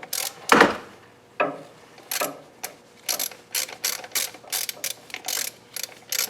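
Hand ratchet wrench clicking in short back-and-forth strokes, settling into about three clicks a second, as stuck bolts are worked out of an old timing chain tensioner.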